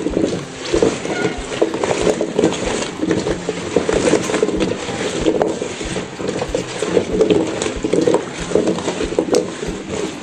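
Cut potatoes, meat and oil being tossed and stirred together in a baking tray: a rhythmic, repeated scraping clatter of the pieces moving against the tray, about two strokes a second.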